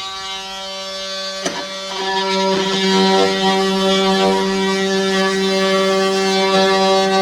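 Oscillating multi-tool running with a steady buzzing drone. There is a knock about a second and a half in, and it gets louder from about two seconds in.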